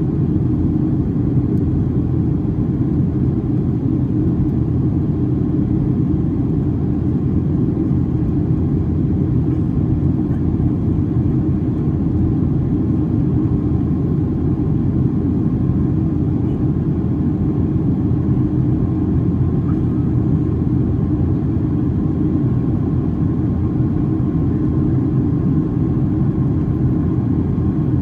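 Steady low cabin rumble of a Boeing 737-800 in flight: engine and airflow noise heard from inside the passenger cabin, even throughout, with a faint thin hum above it.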